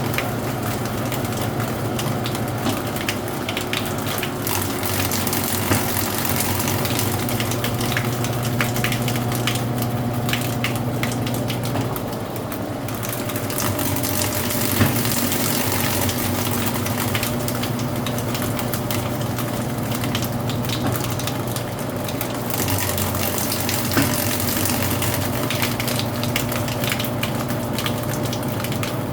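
Brastemp Ative 11 kg (BWL11) washing machine running its intermediate spin: a steady motor hum under a continuous rushing noise with many small rattling clicks.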